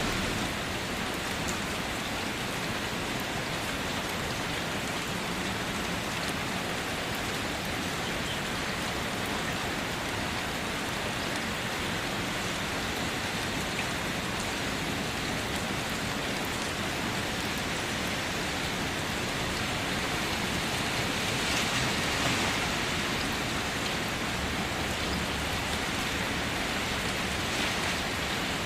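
Steady rain falling on a car's roof and body: an even hiss of many drops, swelling slightly about three quarters of the way through.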